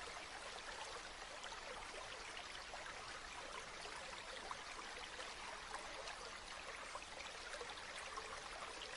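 Stream or small river flowing steadily, water babbling and trickling over stones with a constant fine splashing.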